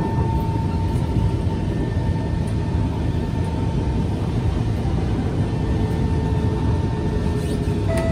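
Interior ride noise of a Kawasaki C151 MRT train car running at speed: a steady rumble of wheels on the track with a faint steady motor hum that fades near the end.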